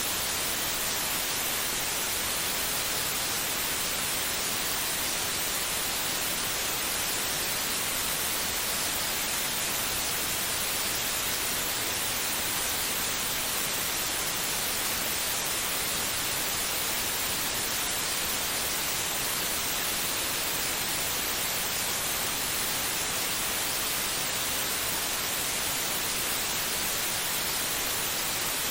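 Steady white noise: an even, unchanging hiss, brightest in the treble, played as a sleep aid to calm a baby.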